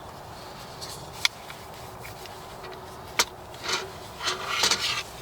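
Two sharp clicks, then a few short bursts of rustling and rubbing as small objects are handled close to the microphone.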